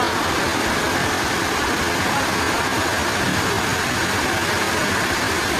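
Sawmill machinery running with a steady, even mechanical noise.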